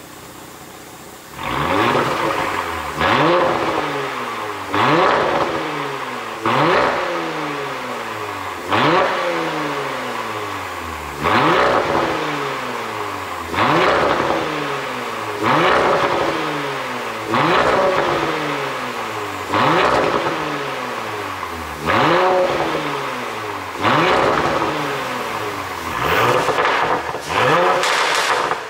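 Audi A7 55 TFSI's turbocharged V6 idling, then blipped over a dozen times, about every two seconds and a little quicker near the end. Each rev rises sharply and falls back slowly with popping and crackling on the overrun, the sound of a pop-and-crackle ECU tune.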